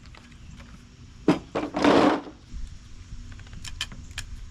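Metal appliance parts being handled during teardown. A sharp knock comes about a second in, then a short loud scrape about two seconds in, with light clicks and taps after.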